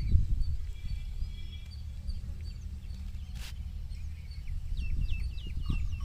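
Small birds chirping in short repeated calls, with a quick run of hooked calls near the end, over a steady low rumble. A single sharp click about three and a half seconds in.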